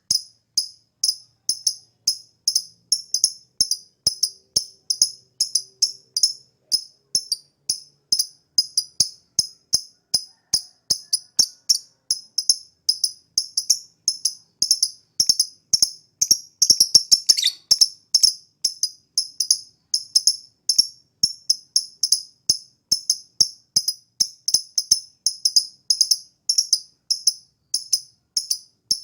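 Lovebird chirping in a long, steady series of short, high-pitched chirps, about three a second, with a briefer louder flurry around seventeen seconds in.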